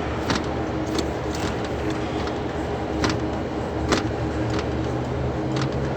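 2016 Toyota Yaris engine running steadily at idle, a steady hum with several tones, with a few short sharp ticks over it. The car's odd noise, first taken for the VVT-i gear, is put down to the alternator.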